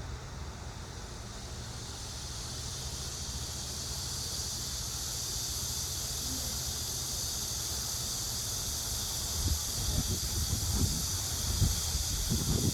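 Fountain water jets spraying, a steady hiss that swells over the first couple of seconds and then holds. Wind rumbles on the microphone underneath, gustier near the end.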